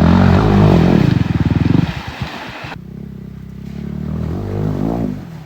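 Small off-road motorcycle engine revving hard. It eases off about two seconds in, builds again near the end, then cuts off suddenly.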